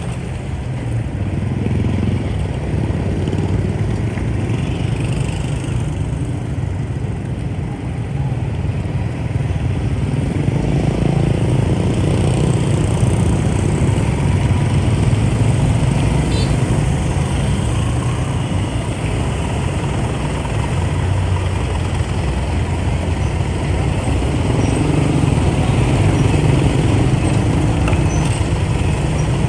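Motorbike engine running steadily while riding, amid the continuous hum of dense motorbike and vehicle traffic.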